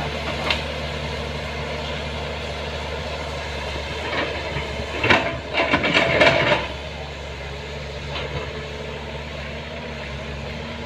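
An engine running steadily with a low hum, with a louder burst of rattling and knocking about five seconds in that lasts over a second.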